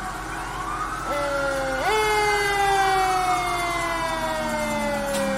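Fire truck sirens wailing, several at once and overlapping. One siren jumps up in pitch about two seconds in and then falls slowly and steadily for several seconds.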